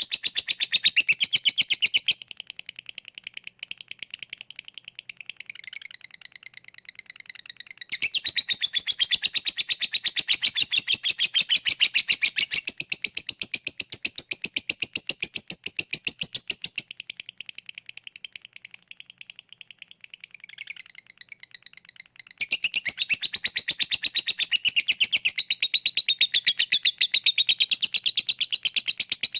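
Lovebird singing its long, rapid chattering trill, the 'ngekek' song used as a bait call to set other lovebirds singing. It comes in loud bouts of very fast, even chatter, with softer, broken chirping between them.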